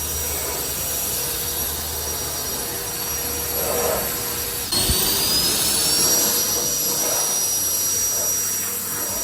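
Cordless handheld ducted-fan blower drying a car, running with a high whine. About five seconds in it gets louder and its whine rises in pitch over a second or so as the fan speeds up, then holds steady.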